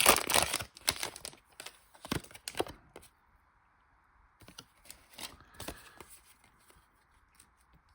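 Foil wrapper of a Pokémon booster pack being torn open, crinkling loudly at the start, then fading to a few scattered crinkles and taps as the pack is handled.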